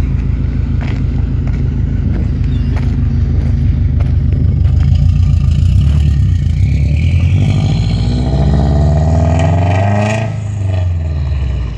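2005 Subaru Legacy GT's turbocharged 2.5-litre flat-four through a catless Invidia downpipe and cat-back exhaust, really loud. The engine runs steadily, then its pitch climbs as the revs rise from about six seconds in and falls again near ten seconds.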